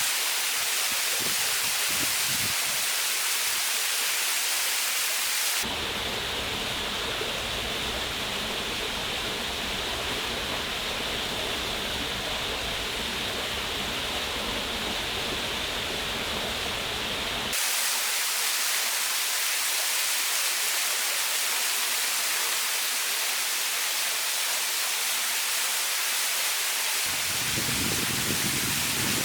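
Steady rush of falling water with no crackle or other events, its tone changing abruptly three times.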